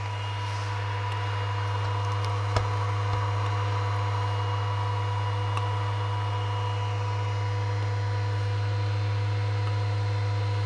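Steady low electrical hum with a faint hiss, and a single sharp click about two and a half seconds in.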